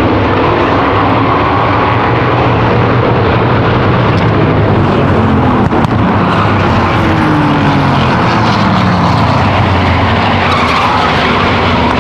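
Field of V8 stock cars and race trucks running at racing speed, a steady loud wall of engine noise, with one engine's pitch falling as it passes by about halfway through.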